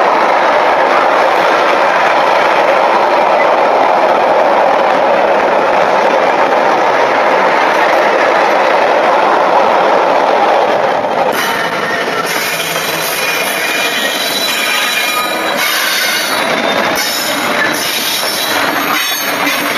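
Container freight train running past at speed, a loud steady rush of wagon wheels on the rails. About eleven seconds in, the sound cuts to a slower Freightliner Class 66 diesel and coal hopper wagons rolling past, with irregular clicks and knocks of wheels over the track.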